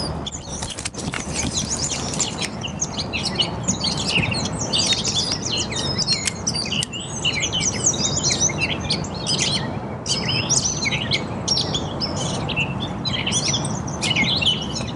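Songbirds chirping and singing, many quick calls overlapping throughout, over a steady low rushing noise.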